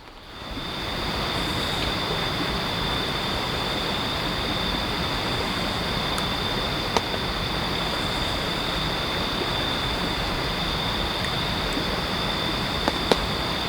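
Mountain stream running: a steady rush of water that fades in over the first second, with a thin, steady high-pitched tone above it and a couple of faint ticks.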